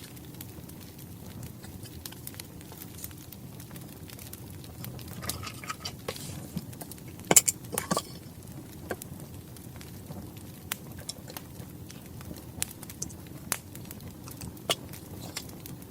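Crackling wood fire: irregular small pops and snaps over a steady low rumble, with a few louder sharp snaps a little past the middle.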